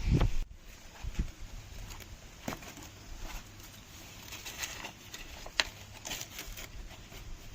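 Rustling and scattered sharp snaps of dry maize plants being handled while picking corn cobs, with a brief loud knock at the start.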